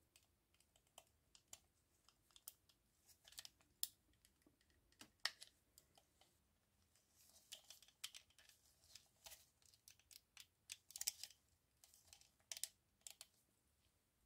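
Faint, irregular light clicks and taps of small hard parts being handled, with quick rattling clusters around the middle and again near the end.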